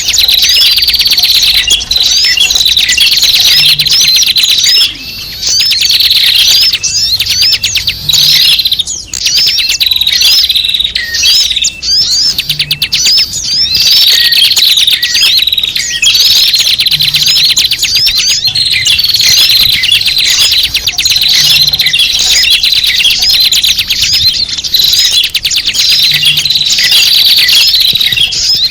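Dense chorus of many small birds chirping and twittering without a break: quick, overlapping high chirps and short trills. It is a lure recording meant to draw small birds in.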